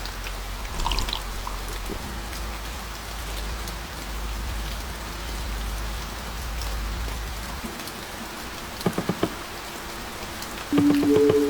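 Heavy rain falling steadily on a car's roof, heard from inside the car. A quick run of light taps comes about nine seconds in, and music starts near the end.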